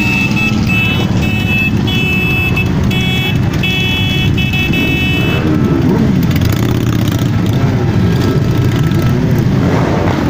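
Many motorcycle engines running together in a loud, dense rumble, with some revving about six seconds in. Over the first five seconds a repeated high electronic beeping sounds in short pulses.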